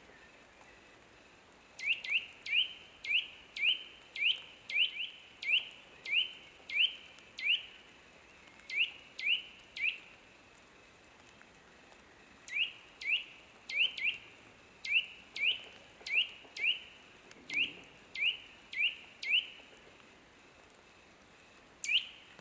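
Bird calling: a series of short, quickly rising chirps repeated about twice a second, in two long runs separated by pauses of a couple of seconds, with one more chirp near the end.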